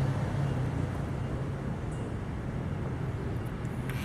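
Steady low engine-like hum over outdoor background noise.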